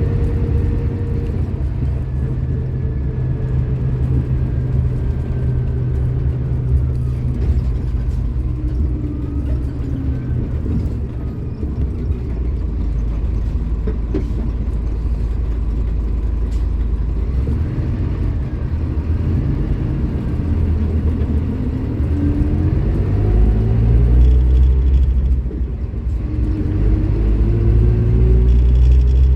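Scania K310IB bus's diesel engine running under way, its low rumble changing with speed and rising in pitch over the last few seconds as the bus accelerates.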